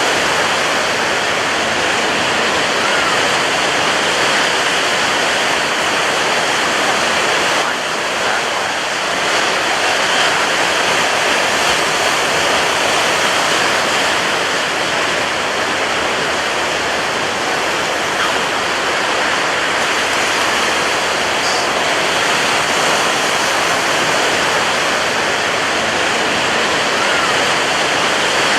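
Ocean surf breaking on a beach: a steady, dense wash of wave noise with very little rise and fall.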